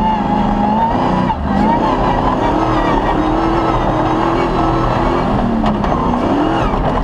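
Off-road rally car's engine working hard at speed. Its pitch drops briefly about a second in, as at a gear change or lift-off, then rises and falls with the throttle, over a heavy low rumble.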